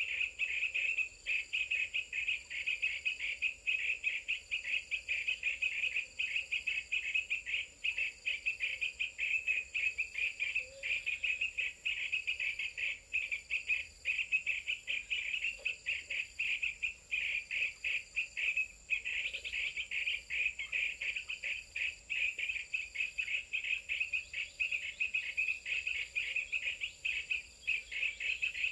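Insects, crickets or similar, in a dense chorus of rapid, continuous chirping, with a fainter, higher pulse repeating about once a second.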